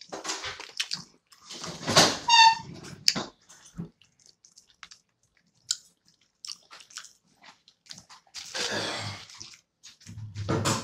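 Close-up chewing and biting on crunchy fried food, with scattered mouth clicks and crackles. The loudest burst is about two seconds in and carries a brief high squeak. Near the end come noisier rustling bursts as her hand goes into the aluminium foil wrapping.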